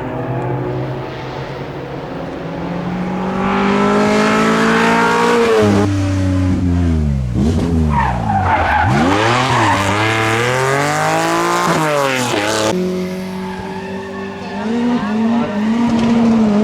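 Rally car engine revving hard. Its pitch climbs for the first few seconds, then swings up and down sharply several times in quick succession, then settles to a steadier note near the end. Tyres skid under the car.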